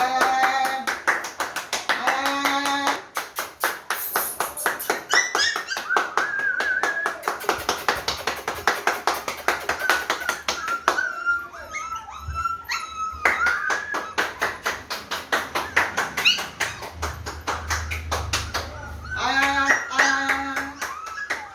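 German Spitz puppies whining, with a high, wavering whine held for several seconds and a few short high yips. A fast, dense ticking runs underneath throughout.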